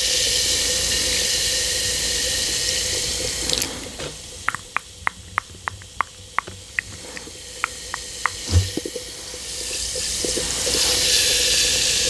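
Bath bomb fizzing in a container of cold water, a steady hiss. About four seconds in the hiss drops away, leaving a run of short sharp clicks for about four seconds, and then the hiss comes back.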